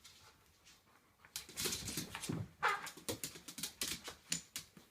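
Wooden Jenga blocks clicking and tapping in quick irregular strokes, starting about a second and a half in, while a dog makes short whining and sniffing sounds at the tower.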